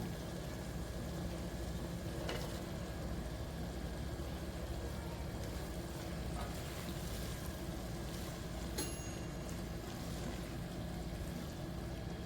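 Steady hum and hiss of stovetop cooking, with a light ringing clink about nine seconds in.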